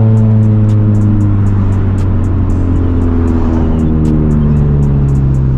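Honda Civic Type R (FL5) turbocharged four-cylinder, fitted with a catless downpipe and resonator delete, droning steadily while cruising, heard from inside the cabin. The pitch sags slowly, and a new lower tone comes in about four seconds in.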